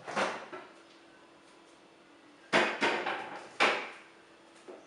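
Kitchen door knocks and thuds, most likely a refrigerator door being opened and shut as a covered bowl goes in. There is one knock at the start and three sharp knocks about two and a half to four seconds in.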